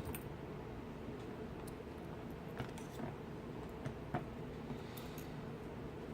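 Scattered small metallic clicks and taps from a Medeco BiAxial lock cylinder being taken apart, its parts handled with tools, about eight in all, the sharpest about four seconds in. A steady low hum runs underneath.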